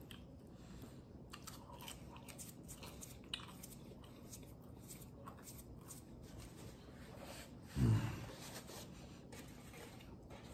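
A man chewing pizza: faint mouth sounds and soft clicks. About eight seconds in comes one short, louder low sound that falls in pitch.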